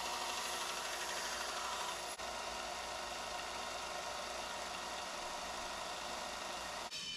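Belt sander running, grinding a Damascus steel knife blade on a 150-grit belt: a steady whirring, rubbing noise that briefly drops out about two seconds in and again near the end.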